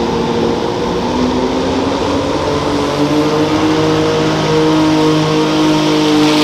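Garden pulling tractor's engine running hard, its pitch rising over the first few seconds as it revs up and then holding steady at high revs, getting a little louder toward the end.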